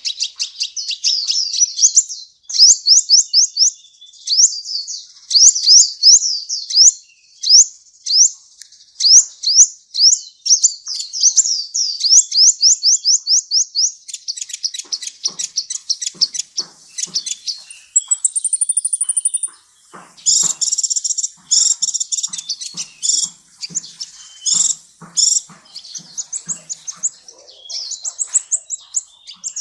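Sunbird song: long runs of rapid, high, sweeping chirps repeated several per second, turning in the second half to busier, harsher chattering phrases with a short, very high trill in the middle.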